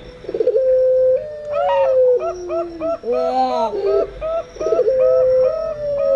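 Doves cooing together: zebra doves (perkutut) and Barbary doves (puter), with long drawn coos that slide slightly down in pitch interleaved with runs of short, quick coo notes, repeating in a steady cycle.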